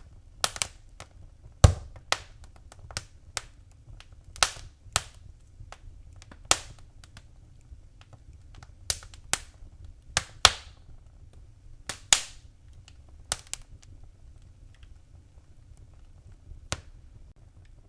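Fireplace fire crackling: irregular sharp pops and snaps, a few louder than the rest, over a steady low rumble of the flames.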